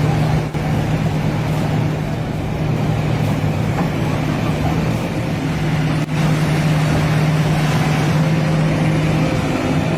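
Engine running steadily at a constant, unchanging pitch, with heavy mechanical noise underneath.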